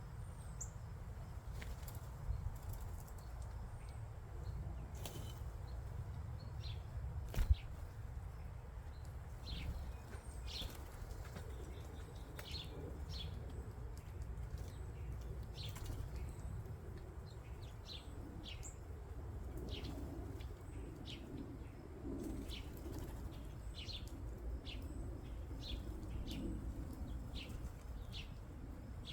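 Small wild birds chirping, short high calls scattered throughout, with wing flutters; a steady low rumble runs underneath, and a single sharp knock comes about seven seconds in.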